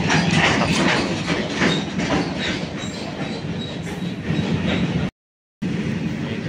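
Freight train of flat wagons loaded with steel coils rolling on the line, wheels clacking over rail joints in an uneven run of knocks over a steady rumble. The sound cuts out for about half a second near the five-second mark, then the rolling noise picks up again.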